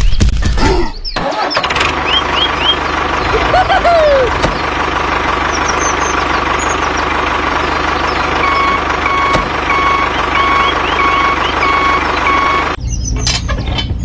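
Tractor engine running steadily. It cuts in about a second in and stops abruptly near the end, with a reversing alarm beeping about twice a second over its last four seconds.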